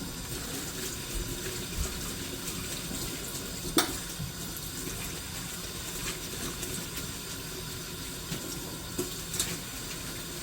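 Tap water running steadily into a sink as a cleaning glove is washed with soap by hand, with a sharp click about four seconds in and two lighter knocks near the end.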